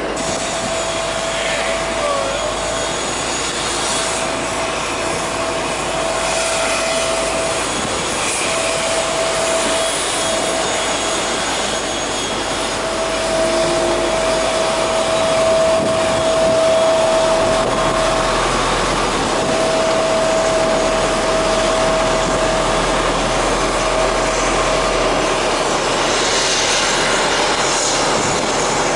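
Steady rushing noise of a car driving past a parked Boeing 777 airliner, with a steady mid-pitched whine that drops out several times and a deeper hum joining about halfway through.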